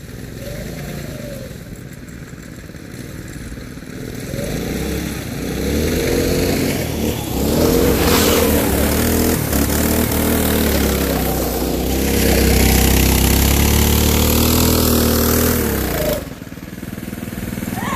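Go-kart's small gasoline engines running, then revving up as the kart drives, with the pitch rising and falling over several seconds. The sound is loudest in the second half and drops back suddenly about two seconds before the end.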